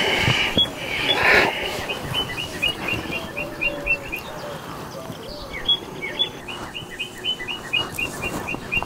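A bird chirping in quick runs of short, evenly spaced high notes, about five a second, in two runs of a couple of seconds each. A short burst of noise comes about a second in.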